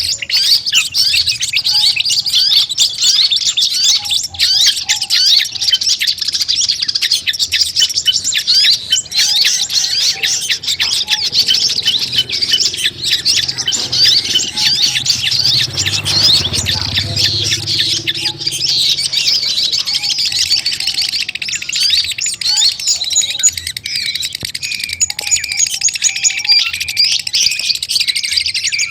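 Long-tailed shrike (cendet) calling without pause: dense, rapid chirps and harsh squawks, layered and overlapping, with a few lower repeated notes woven in.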